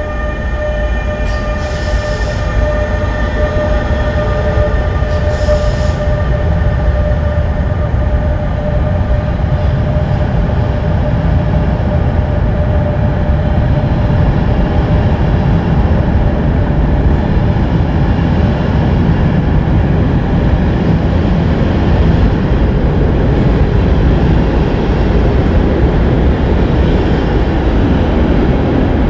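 Class 186 TRAXX electric locomotive hauling passenger coaches past at speed. For the first few seconds its traction equipment gives a steady multi-tone whine, along with two short high hisses. The rumble of the coaches' wheels on the rails then carries on as the long train rolls by.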